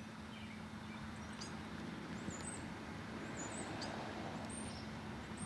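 Steady outdoor background noise with a faint steady hum, and small birds chirping briefly every second or so.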